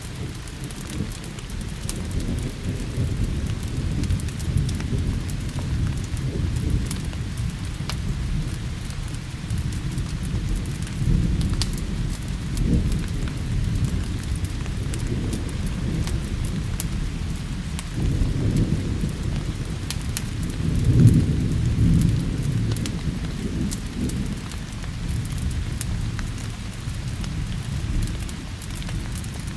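Steady rain with rolling thunder that swells several times, loudest about two thirds of the way through. Scattered sharp crackles from a fireplace sound over the rain.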